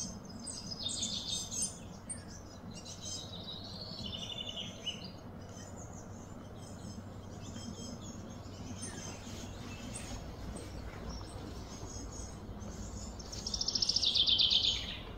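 Small birds chirping and twittering in the background, with a louder, fast trill near the end.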